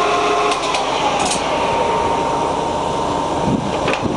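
Harrison M500 centre lathe's headstock gearbox running in its high speed range. About half a second in, the steady gear whine changes, with a few light clicks, and a new whine at a different pitch sets in as the spindle moves to the next speed.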